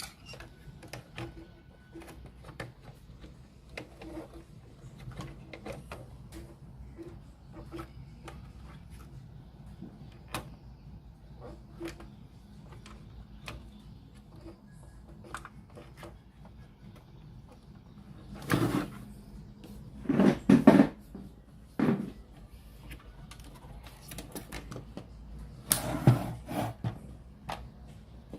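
Scattered small clicks and knocks of handling on a radio cassette player, with a few louder clunks near the middle and again near the end.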